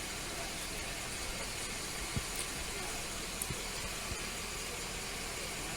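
Steady low hum and hiss of an idling vehicle engine, with a few faint clicks.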